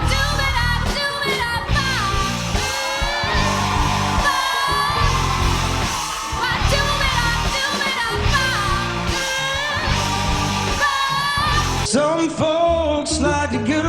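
A pop song: a solo voice sings long, wavering held notes over a steady bass line. About twelve seconds in, it cuts abruptly to a different song with another voice.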